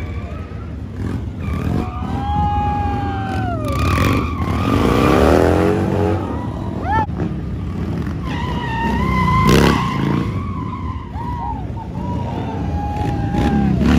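Motorcycle engines revving up and down, the pitch rising and falling, with sharp pops about 4 seconds in and again near 9.5 seconds.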